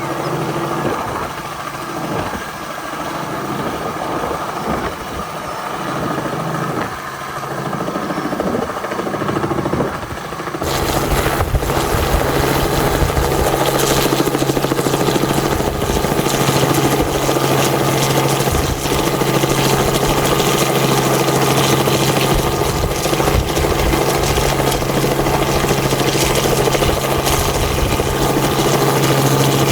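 Engines running steadily. About ten seconds in the sound switches abruptly to a louder, denser engine noise that holds steady.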